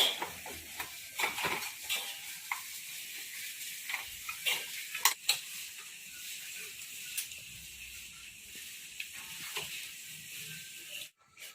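A steady hiss with scattered light clicks and taps of hand tools and small metal parts being handled, cutting off suddenly near the end.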